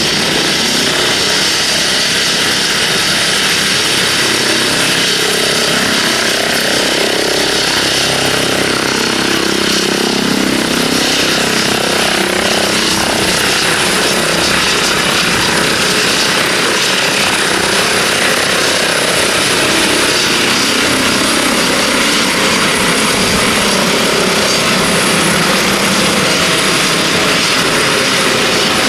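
Twin-turbine helicopter running steadily, its turbine whine and rotor noise holding level throughout.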